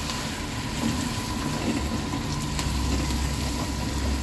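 Chicken pieces and ground spices frying in hot oil in a non-stick pot, sizzling steadily while a spoon stirs them, with a few faint ticks of the spoon.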